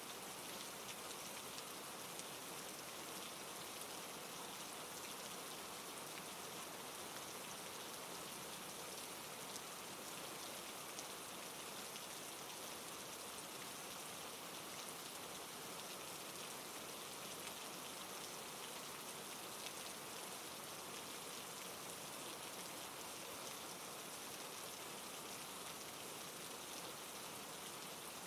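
Steady rain falling: an even, unbroken hiss with fine scattered drop taps.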